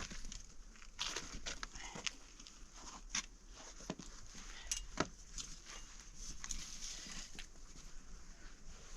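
Irregular soft knocks, scrapes and rustles, a few each second, over a faint steady hiss.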